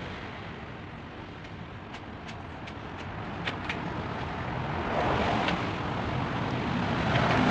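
A motor vehicle going by, its engine noise growing louder toward the end, with a few faint clicks partway through.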